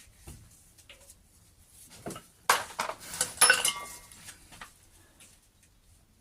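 Steel spanner clinking against the tappet adjusting nuts of a side-valve engine as it is offered up to see if it fits: a cluster of sharp metallic clinks with slight ringing, starting about two seconds in and dying away a couple of seconds later.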